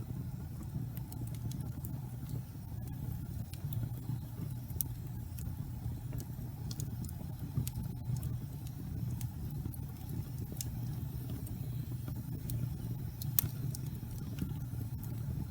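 Wood fire in a fireplace burning steadily, a low even rumble with frequent sharp crackles and pops scattered through it.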